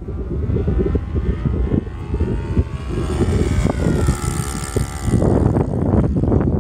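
Cessna 182's piston engine and propeller droning steadily, its pitch drifting up and back down a little in the middle, under heavy wind buffeting on the microphone that grows louder near the end.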